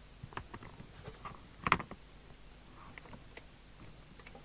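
A few light clicks and taps, with one sharper knock about a second and a half in.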